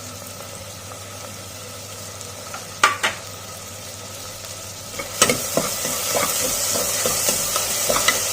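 Chopped onions frying in groundnut oil in a pressure cooker: a faint sizzle with one clink of the spoon about three seconds in. From about five seconds in the sizzle gets louder, with the spoon scraping and tapping against the pot as the onions are stirred.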